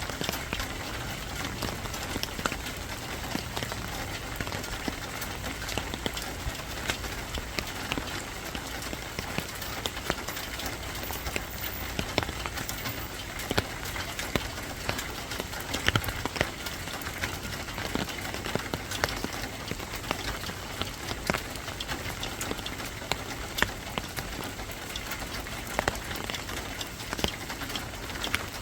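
Steady rain falling, with many sharp individual drops striking a nearby surface throughout.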